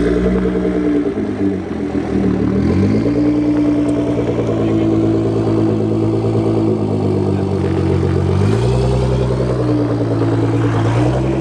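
Performance car engine and exhaust running under varying revs: the pitch falls in the first couple of seconds, climbs and holds steady, drops about three-quarters of the way through, then climbs again near the end.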